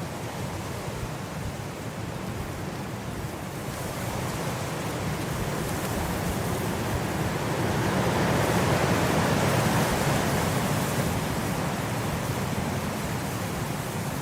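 Blizzard wind blowing as a steady rush of noise, swelling into a stronger gust about eight to ten seconds in, then easing a little.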